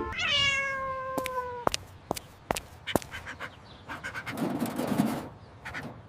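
A cat's long meow, dropping in pitch at the start and then held for about a second and a half, followed by a run of sharp clicks and a brief rustling.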